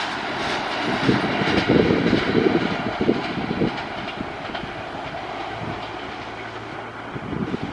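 Wheels of a double-deck passenger train clattering over the rail joints as its tail moves away, the knocks bunched in the first few seconds and the whole sound fading steadily.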